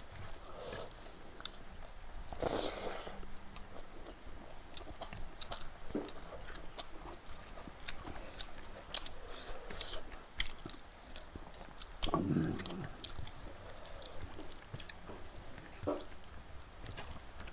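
Close-up eating sounds: chewing and biting with wet smacks and crunches as spicy pork curry and rice are eaten by hand, louder smacking about two and a half seconds in and again about twelve seconds in.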